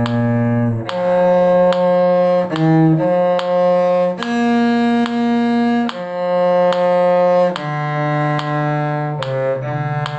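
A cello playing a simple melody line of held bowed notes, about one new note a second, with a couple of quick short notes between them.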